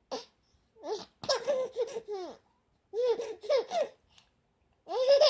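Baby laughing in several short runs of high-pitched giggles with pauses between them.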